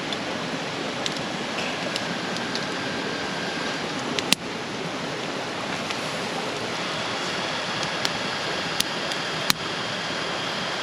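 Steady rushing of a mountain stream flowing over rocks, with a couple of sharp clicks about four and nine and a half seconds in.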